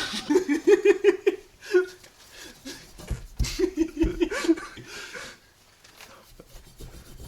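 A man laughing: a run of short repeated "ha" sounds about half a second in and another around four seconds in, with a couple of sharp knocks just before the second.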